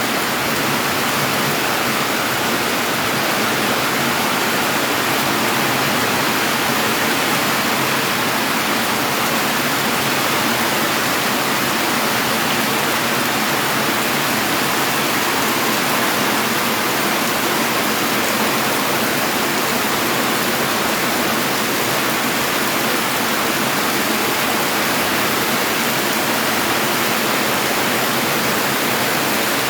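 Heavy rain and floodwater running, a steady even rush of noise with no let-up.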